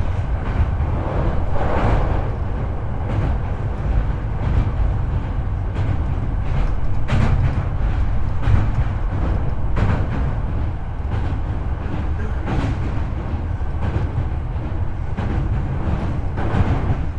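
Hankyu 8300 series electric train running, heard from the car floor over the bogie: a steady low rumble of wheels on rail with occasional sharp clicks.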